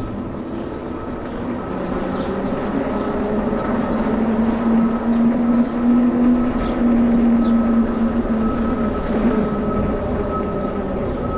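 Riding an e-bike: a steady electric hub-motor whine over wind and road noise, growing louder towards the middle.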